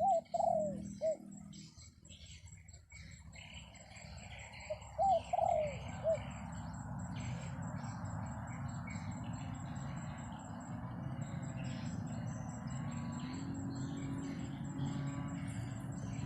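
A dove cooing in two short phrases, one at the start and one about five seconds in, among many small birds chirping. Wind rushes on the microphone through most of it.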